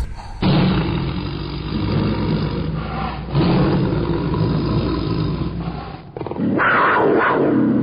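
Bear roaring and growling in two long stretches, the second louder one starting about six and a half seconds in after a short break; the sound is dull, cut off in the highs.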